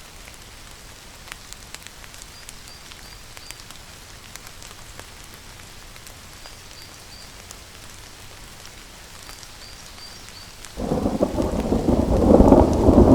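Steady rain with fine drip ticks, then a thunderclap breaks in suddenly near the end as a loud, low rumble that keeps building. Faint high chirps come in short runs of three or four through the rain.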